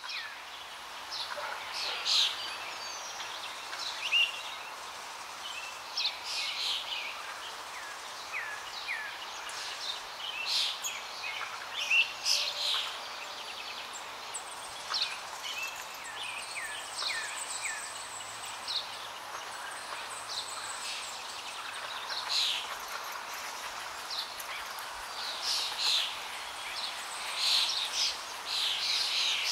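Birds chirping and calling: many short high notes, some sliding down in pitch, scattered throughout over a steady faint hiss.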